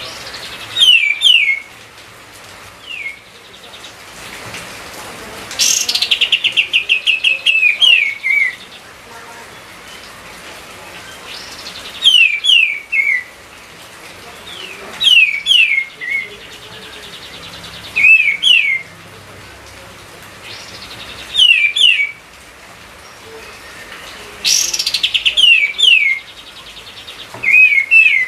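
Kapas tembak songbird singing loudly and agitatedly: repeated short phrases of two or three quick falling whistles every few seconds, twice led in by a fast rattling trill.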